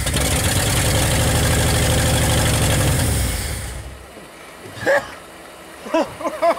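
1959 Ford Custom 300's 292 V8 running with no muffler on its first start in 46 years, then dying out about three and a half seconds in. A voice is heard briefly near the end.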